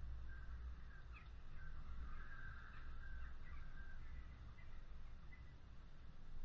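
Bird calls, a cluster of short calls about one to four seconds in, with a few fainter ones later, over a steady low rumble.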